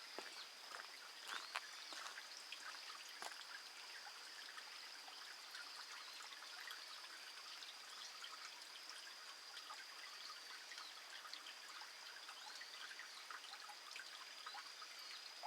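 Faint outdoor ambience: a steady high-pitched insect trill with scattered soft ticks and a light trickling haze.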